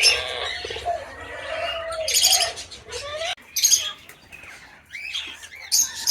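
Aviary birds chirping and squawking, with loud shrill calls about two, three and a half, and six seconds in.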